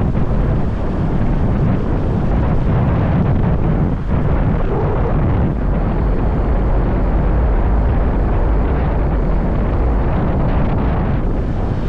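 Riding motorbike heard from the rider's position: steady loud rush of wind buffeting the microphone over the bike's running engine and road noise, with a brief dip about four seconds in.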